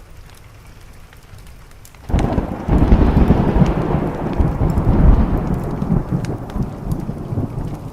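A thunderclap breaks in about two seconds in and rumbles low and loud for several seconds, slowly fading. It rides over steady rain and the sharp crackle of a wood fire.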